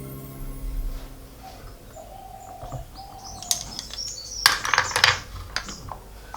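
Birds chirping, with a quick run of sharp clicks and clinks from about three and a half to five seconds in.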